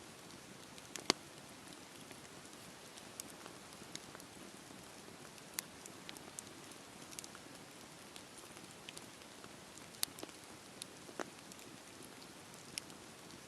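Wood fire crackling: a steady soft hiss of burning wood with sharp pops and snaps at irregular intervals, the loudest about a second in and again around ten and eleven seconds in.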